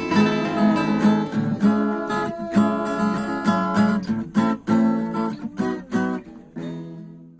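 Acoustic guitar strummed and picked, playing chords that thin out and fade away near the end.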